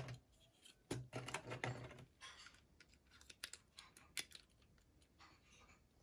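Toy packaging being handled: a short burst of plastic rustling about a second in, then scattered small clicks and rustles.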